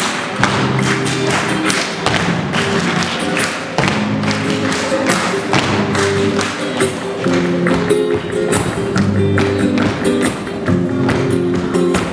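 Flamenco music in the tangos style: held melodic notes over a busy run of sharp percussive taps and strikes.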